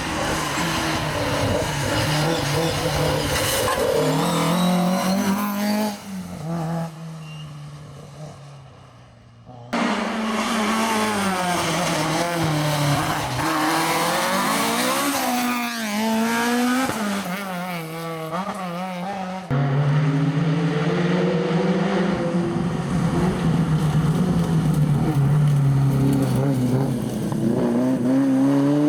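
Historic rally cars driven hard on a tarmac stage, engines revving up and dropping back through gear changes as they pass. The sound jumps abruptly between passes about ten and twenty seconds in.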